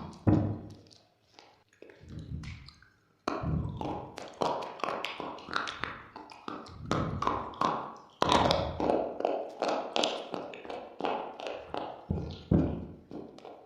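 Close-up eating ASMR: hard, brittle material being bitten and chewed, a dense run of crisp crunches, sparse at first with a brief pause, then continuous from about three seconds in.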